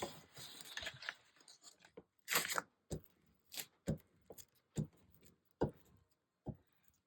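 Hands working with paper and craft supplies on a table: a brief paper rustle, then about six short, sharp clicks and taps spaced roughly half a second to a second apart.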